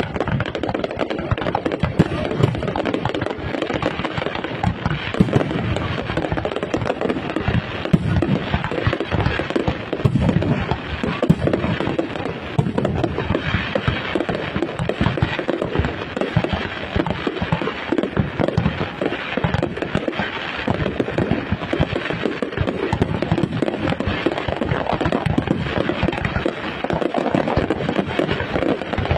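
Large fireworks display: a dense, continuous barrage of bangs and crackling with no pause.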